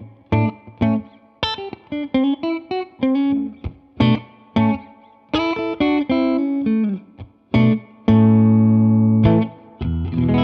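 Electric guitar played through a Hudson Broadcast-style dual preamp pedal: a lick of short single notes with bends, then a held chord a little past two-thirds in, and a fresh chord struck at the very end.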